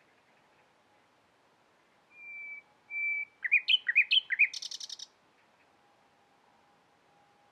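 Nightingale singing one phrase, starting about two seconds in. It opens with two held whistled notes, then runs into a string of quick slurred notes sweeping up and down, and ends in a rapid high, buzzy trill.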